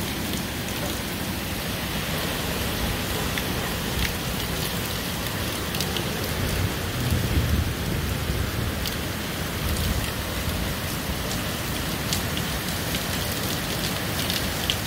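Heavy hurricane rain pouring steadily onto a wooden deck and the yard, with scattered drips ticking. Gusts of wind rumble on the microphone, most strongly about halfway through.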